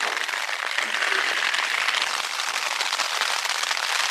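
Rain falling on the fabric of a Hilleberg Akto tent, heard from inside: a dense, steady patter of countless small drops.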